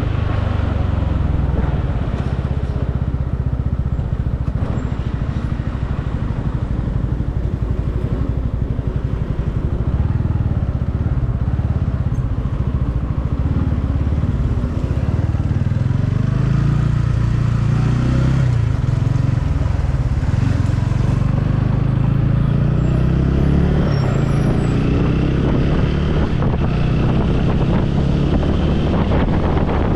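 Motorcycle engine running while riding, under a steady low rumble of wind and road noise on the helmet microphone. The engine pitch rises and falls with throttle changes around the middle and again near the end.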